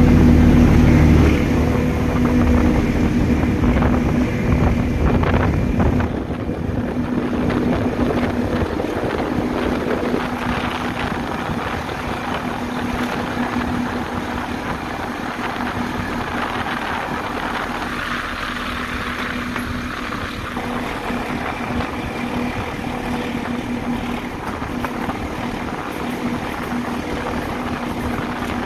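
Train running, heard from an open carriage window behind a Class 14 diesel-hydraulic locomotive: a steady rush of wheel, rail and wind noise with a steady engine hum underneath. It is louder for the first second or so, while passing under a brick bridge.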